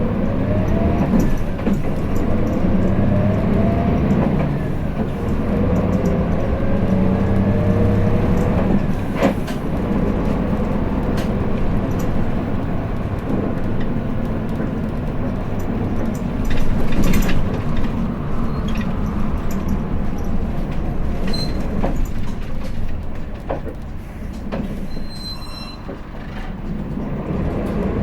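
Hino Blue Ribbon City bus's diesel engine heard from inside the cabin, pulling away from a stop and accelerating, its pitch rising in steps through the gears before running on at road speed. A few sharp knocks come about nine and seventeen seconds in, and there are short high beeps near the end as the engine note drops and then rises again.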